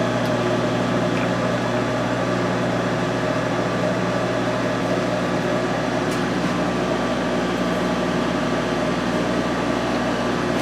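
Steady, even machine hum, with a couple of faint ticks.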